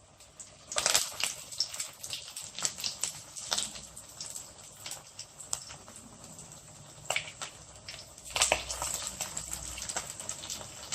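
Hot oil sizzling and crackling as breadcrumbed chicken-and-potato hash cakes go into a pan for shallow frying. A sharp rise in spattering comes about a second in and another near the end, as more cakes are laid in.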